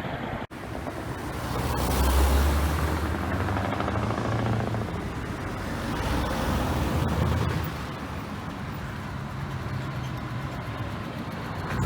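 Scania V8 truck engine running through an open, straight-piped exhaust, with a deep steady note. It grows louder about two seconds in and swells again around seven seconds, after a brief dropout half a second in.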